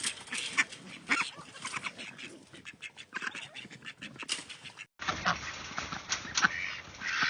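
A flock of ducks quacking, with many short calls overlapping in quick succession.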